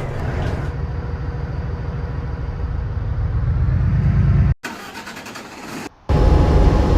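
Transit bus engine running with a steady low rumble. The sound cuts off abruptly about four and a half seconds in to a quieter stretch, then cuts back to a loud engine running about a second later.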